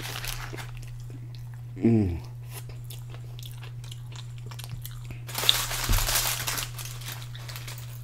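A person biting into and chewing a stuffed pita wrap close to the microphone, with wet chewing and crunching. There is a short falling hum of the voice about two seconds in, and a louder burst of noise lasting about a second a little past the middle, over a steady low hum.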